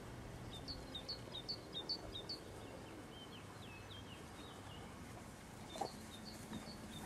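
A songbird singing outdoors: a quick run of high two-note chirps in the first couple of seconds, a few falling notes, then more repeated chirps near the end.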